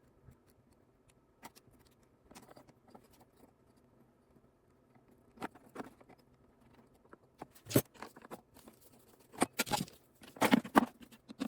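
Hands handling small engine parts: scattered light clicks, taps and rustling as the primer line and kill switch are fitted. The clicks grow louder and come more often in the last few seconds.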